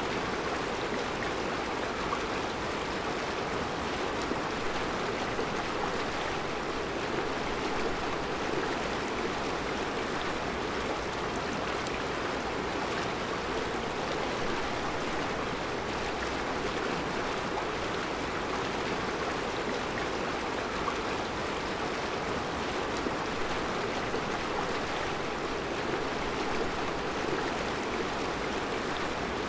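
Mountain river flowing steadily over round rocks in a rocky riverbed, a constant rushing and burbling of water.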